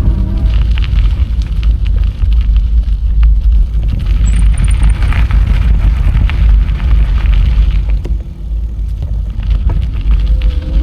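Wind rumbling on the microphone of a moving bicycle, with crackling tyre and trail noise. A brief high, thin whistle sounds about four seconds in.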